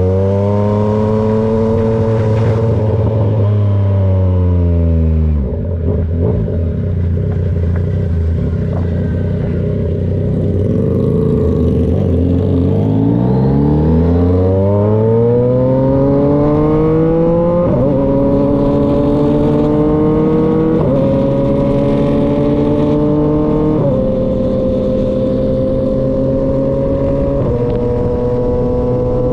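2023 Yamaha XSR900's three-cylinder engine through an SC-Project CRT exhaust, heard while riding. The note falls away over the first few seconds as the bike slows and runs low for several seconds. It then climbs as the bike accelerates and goes up through four gears, each shift dropping the pitch briefly before it rises again.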